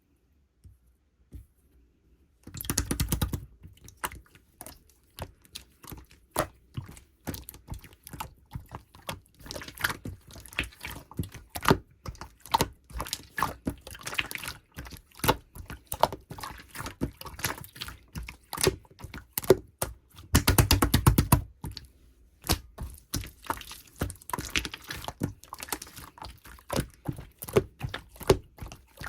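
Clear slime being pressed and stretched by hand, making a steady run of sticky clicks and small air-bubble pops. There are two dense, rapid bursts of pops, about three seconds in and about twenty-one seconds in.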